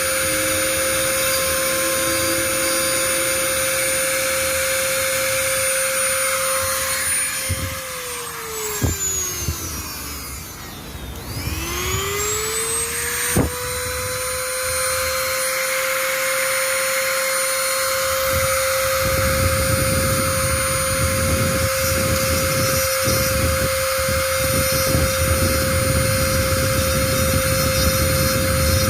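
Small high-speed electric motor running with a steady whine. It winds down about a third of the way in and spins back up a few seconds later, with a click at each change. A rougher scraping noise joins in during the last third.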